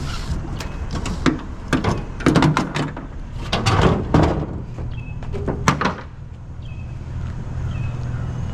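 Scrap items being shifted around and set down: a quick run of knocks and clatters for about six seconds, then it goes still. A low steady hum continues underneath.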